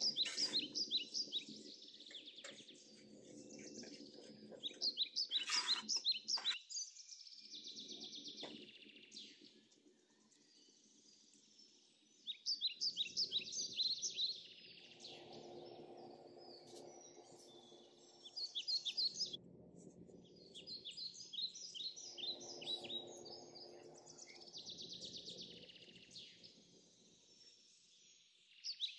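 Birds singing: bursts of rapid, repeated high chirping trills every few seconds, with a low hum underneath at times.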